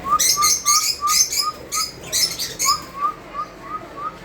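Lovebirds chirping and chattering: loud, shrill high chirps for the first two and a half seconds, over a run of short rising notes repeated about four times a second.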